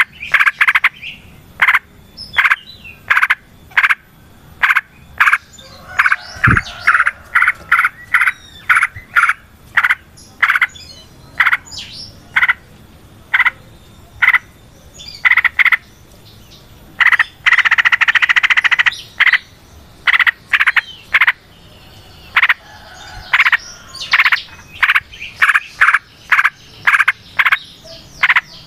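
Yellow-vented bulbul (trucukan) calling: short, sharp notes repeated about once a second, with a longer run of rapid chattering about two-thirds of the way through.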